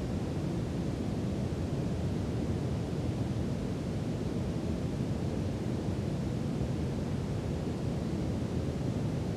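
Brown noise: a steady, even rumbling hiss with its weight in the low end, unchanging throughout.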